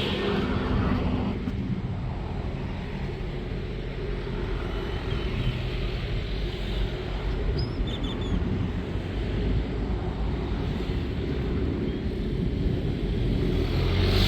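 Steady low rumble of road traffic with outdoor wind-like noise, and a few faint high bird chirps about five and eight seconds in.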